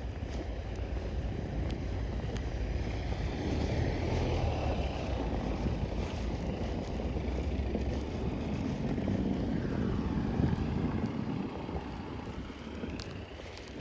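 Traffic on a snow-covered city street: vehicles pass, their engine and tyre noise swelling and fading twice, over a steady low rumble of wind on the microphone.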